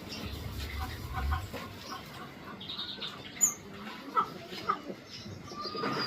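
Parrot finches in an aviary giving scattered short, high chirps, with three sharp clicks standing out around the middle.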